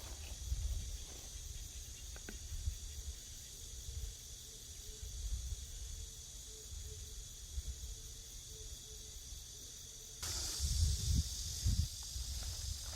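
Outdoor ambience of insects chirring steadily in a high, even hiss, with low rumble from wind on the microphone; about ten seconds in, a louder rushing noise joins.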